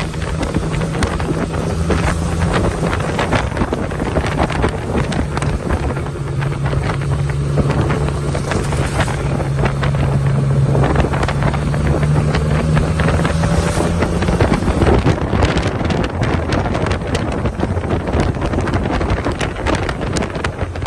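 A vehicle on the move: a steady low engine hum under a dense rushing noise of wind on the microphone, with many small patters and clicks. The hum drops away about two-thirds of the way through.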